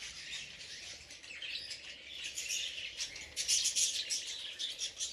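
A flock of small aviary parrots chirping, many short calls overlapping, busiest about three and a half seconds in.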